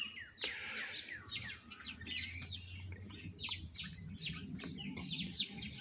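Wild birds chirping, many short high chirps overlapping in quick succession, with a faint low hum underneath.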